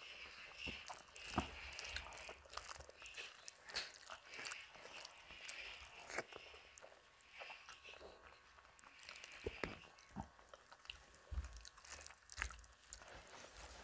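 Close-up eating sounds: chewing mouthfuls of rice and fish curry, with many small, irregular wet mouth clicks and fingers mixing rice on the plate.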